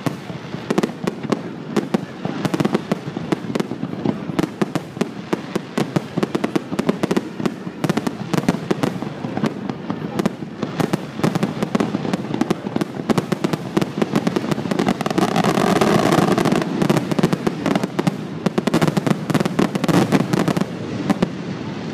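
Aerial fireworks display: a dense, rapid barrage of shell bursts and crackling, with the bangs coming thickest and loudest about fifteen seconds in.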